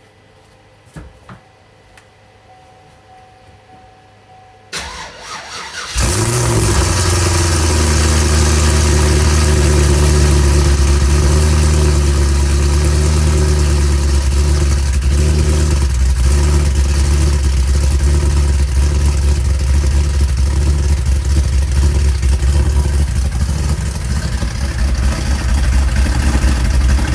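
A car engine cold-started: a couple of clicks, then the starter cranks for about a second before the engine catches about six seconds in and settles into a loud, steady cold idle with a low rumble.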